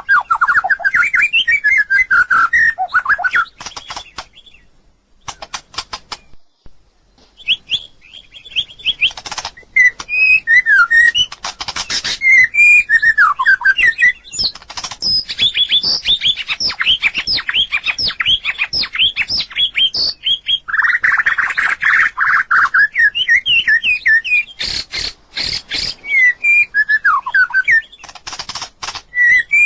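White-rumped shama singing: fast, varied whistled phrases of gliding and warbled notes mixed with short sharp notes, with a brief pause about five seconds in.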